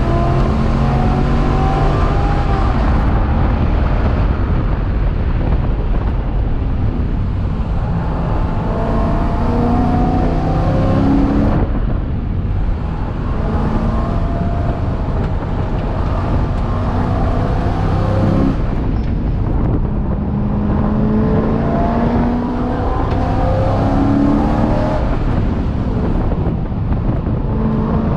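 C6 Corvette race car's V8 engine running hard at speed, its pitch climbing under acceleration and then falling back sharply twice, about a third and two-thirds of the way through, as the driver shifts or lifts.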